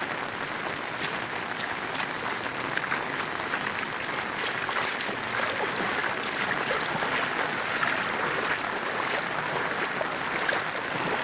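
Steady, even rushing of water with faint scattered splashes.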